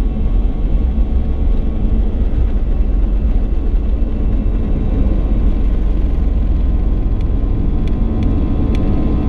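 Steady cabin rumble of an Airbus A320neo, with engine and airflow noise heard from inside the cabin. A few faint ticks come near the end.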